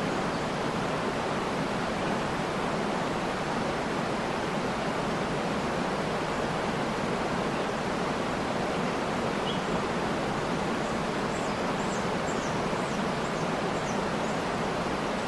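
Waterfall rushing steadily, with a few faint high bird chirps in quick succession in the second half.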